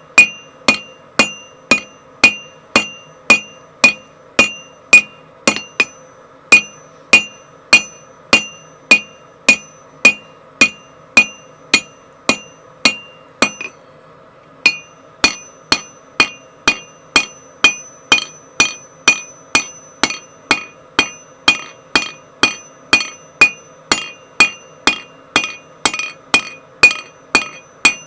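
Blacksmith's hammer striking 1060 tool steel on an anvil during forging, about two blows a second, each with a bright ring. The hammering stops for about a second halfway through, then resumes and quickens near the end. A steady hum runs underneath.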